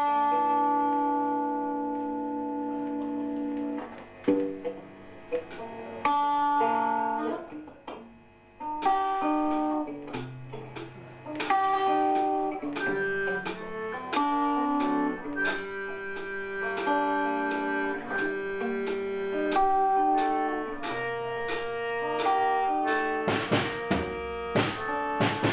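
Gypsy rock band starting a song live: a held chord, then a picked melody line of separate notes. Drums come in with heavy hits near the end.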